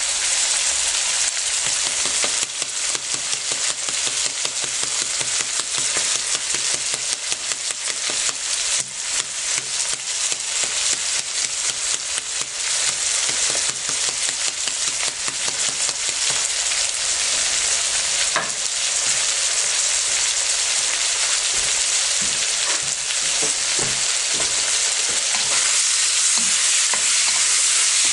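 Beef chunks and onion sizzling in a hot wok: a steady frying hiss thick with fine spitting crackles.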